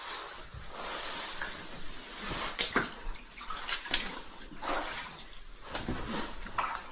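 Splashing and scuffing of people moving through water in a wet cave passage, with a steady watery hiss and about half a dozen sharper splashes or knocks, the loudest near the middle.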